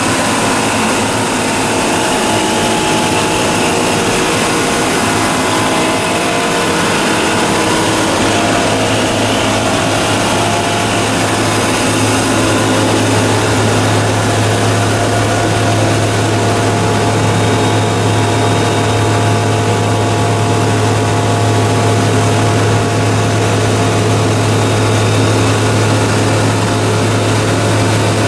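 Two-stage plastic recycling extruder line running: a steady machine drone with a strong low hum that grows stronger about halfway through, and several steady whining tones above it.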